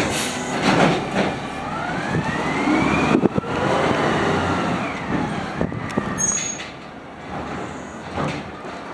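Natural-gas automated side-loader garbage truck working a pickup, its arm hydraulics at engine idle. There are several metallic clanks, and a whine rises over about two seconds and then falls.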